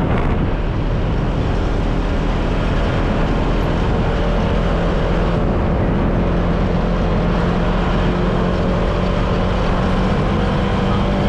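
Honda PCX 150 scooter's single-cylinder engine straining under load as it carries two riders up a steep hill, holding a steady pitch.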